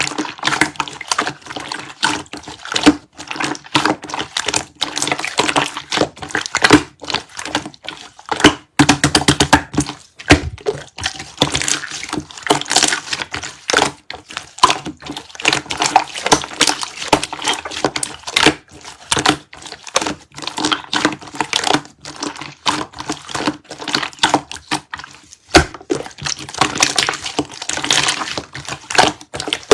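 Slime being squished and pressed by hand: a dense run of wet clicks and crackles, broken by a few brief pauses.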